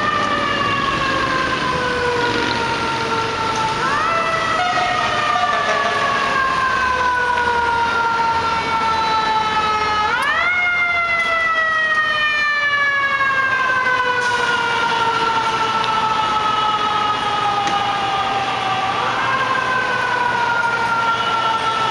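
Emergency vehicle siren wailing, each cycle rising quickly and then falling slowly in pitch, starting a new rise three times at uneven intervals.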